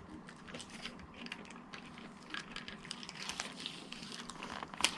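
Fast-food packaging being handled close to the microphone: light crackling and rustling, with one sharper click near the end.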